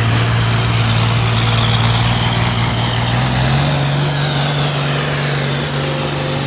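Diesel engine of a pulling vehicle running hard under load as it drags the sled down the track. Its pitch steps up about three seconds in.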